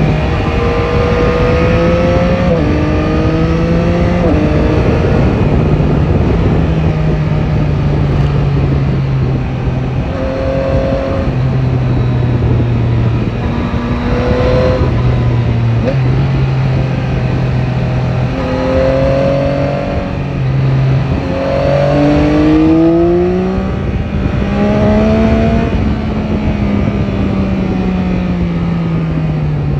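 Yamaha Tracer 9 GT's inline-three engine under way on a ride, its revs stepping through gear changes, then climbing and slowly falling off again, over steady wind and road rush.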